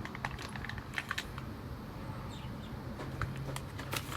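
Scattered light clicks and taps of small parts and packaging being handled, over a faint steady low hum.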